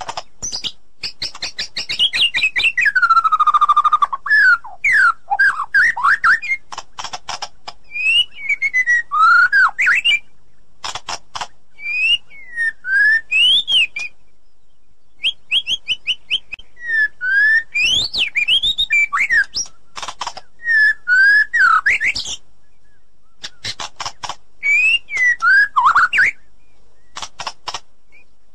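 White-rumped shama singing: a varied, loud song of sweeping whistled notes mixed with rapid clicking and chattering runs, with brief pauses between phrases.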